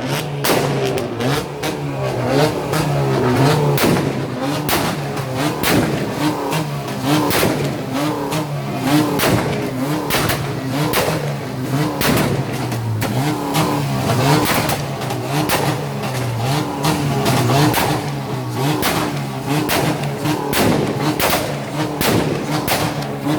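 Modified car engines revving hard on two-step launch limiters, the pitch wavering up and down, with rapid, repeated exhaust backfire bangs and pops throughout.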